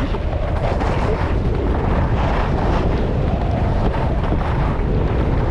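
Strong wind buffeting the microphone of a camera on a skier moving fast downhill: a steady, loud, rumbling rush of noise.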